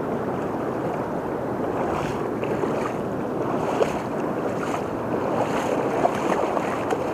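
River water running steadily past the shore, with a few faint small ticks and splashes.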